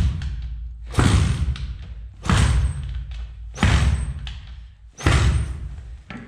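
Pit bike's small single-cylinder engine being kick-started again and again, about five kicks roughly 1.3 seconds apart, each giving a brief turn-over rumble that dies away without the engine catching. It won't start even with the swapped carburettor, so the fault is not in the carb.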